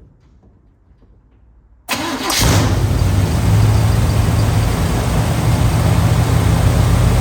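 A 1957 Chevrolet Bel Air's engine starting from cold: after a few faint clicks it fires suddenly about two seconds in and settles into a steady idle.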